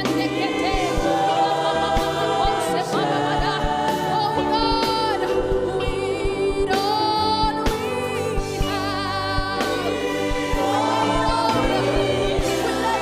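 Live gospel worship music: a choir singing over a band, with a steady beat and sustained keyboard or bass notes.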